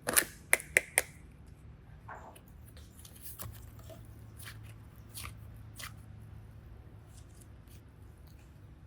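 Hands handling small craft materials: four sharp clicks in quick succession at the start, then scattered softer clicks and light rustling.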